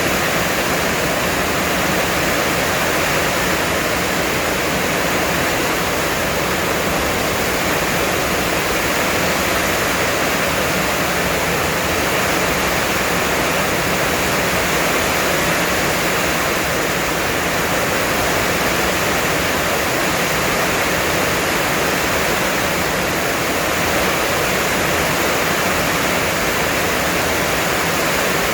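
Heavy rain falling in a steady downpour, an even dense hiss that does not let up.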